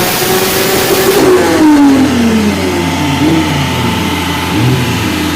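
Toyota 2JZ inline-six in a drift car running on a dyno, revving high until about a second in. Then the throttle closes and the revs fall away, followed by a couple of short throttle blips.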